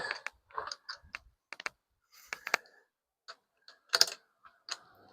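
Irregular light clicks and short knocks of tools and small metal parts being handled, with a louder clatter about four seconds in.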